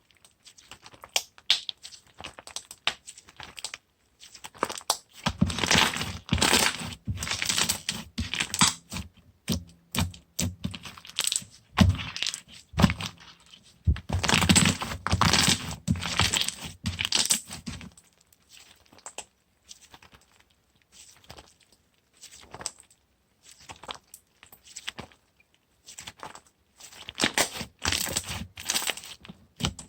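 Toffee slime being worked by hand, giving off sticky crackling and popping clicks. It comes in two dense spells of about four seconds each, with scattered single clicks between them.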